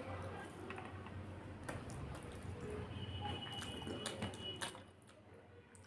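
A person chewing a mouthful of rice and chicken eaten by hand, with small wet clicks and smacks of the mouth and fingers scooping rice on the tray, over a low hum; it grows quieter near the end.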